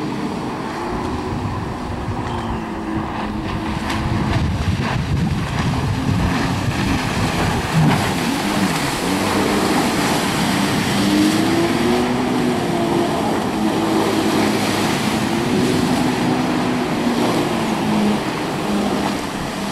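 Jet ski engine running on the water, its pitch rising and falling again and again as the rider throttles up and eases off.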